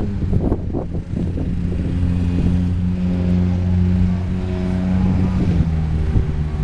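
A car engine idling steadily close by, a low even hum.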